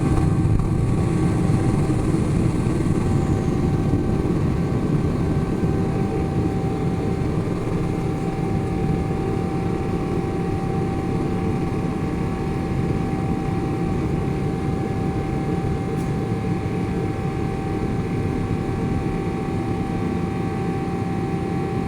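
Boeing 777-300ER's GE90 jet engines heard from inside the cabin: a steady rumble with a constant whine, easing slightly in loudness over the stretch.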